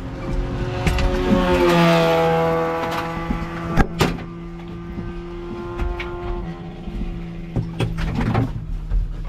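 Race car's engine heard from inside the stripped cabin, rising in pitch about a second in and then holding a steady note, with a couple of sharp clicks near the middle.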